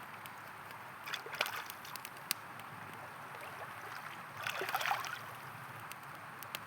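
A river flowing steadily, with sharp pops and crackles from a campfire. Twice, about a second in and again near the five-second mark, there are short, louder clusters of splashing or crackling.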